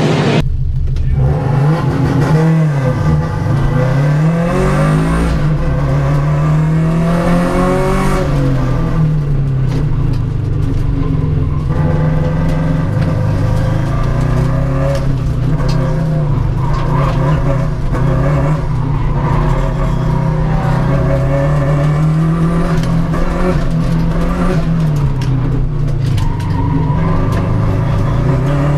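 Race car engines at high revs, the pitch rising and falling again and again as the cars accelerate and lift off around a track, with more than one engine heard at times.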